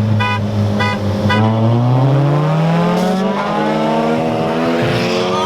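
Car engine under hard acceleration: it holds steady, then climbs in pitch through a gear, shifts about three seconds in, and climbs again through the next gear. Three short high beeps sound near the start.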